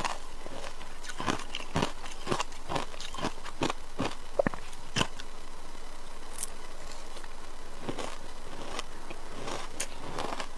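Ice being bitten and crunched between the teeth, sharp crackly crunches about twice a second for the first five seconds, then fewer and further apart.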